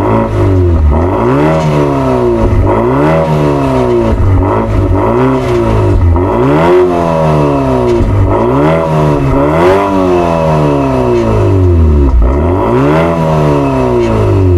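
BMW 330e's turbocharged four-cylinder engine revved again and again through an iPE titanium valved exhaust, the pitch climbing and dropping about every one and a half seconds.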